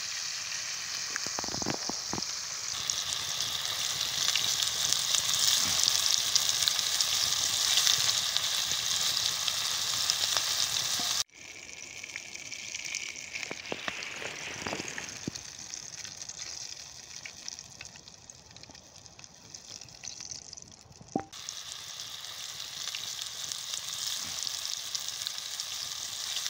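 Pike pieces sizzling as they fry in oil in a skillet over a campfire, with a few light taps. The sizzle drops suddenly about eleven seconds in and comes back up suddenly about ten seconds later.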